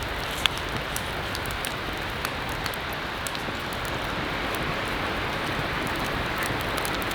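Heavy rain pouring steadily, with sharp drop ticks scattered through it and one louder tick about half a second in.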